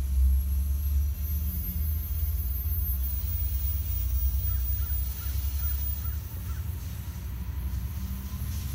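Low, steady rumble of a Capitol Corridor passenger train. About halfway through, a bird gives a run of about five faint short calls.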